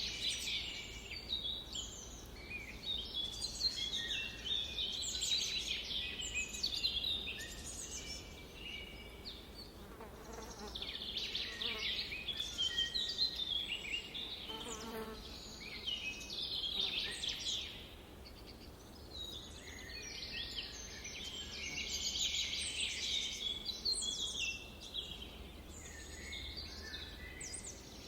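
A chorus of many songbirds chirping and trilling in a summer forest, rising and thinning in waves. A flying insect buzzes past about halfway through.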